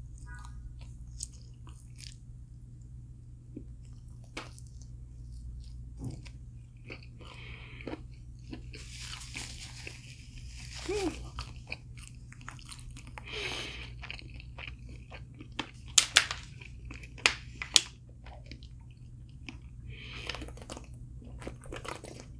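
A person eating crispy fried food close to the microphone: biting, crunching and chewing in irregular bursts, with a cluster of sharp, loud crunches about three-quarters of the way through. A steady low hum runs underneath.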